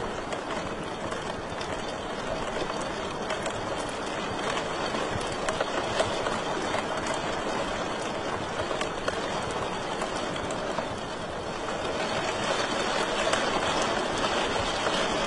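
Wood fire crackling in a fireplace: a steady hiss with scattered sharp pops and crackles.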